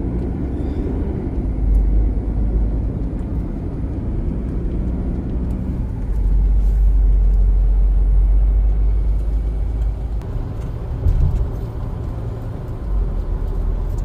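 Road noise inside a moving car's cabin: a steady low rumble of tyres and engine, swelling louder for a few seconds in the middle.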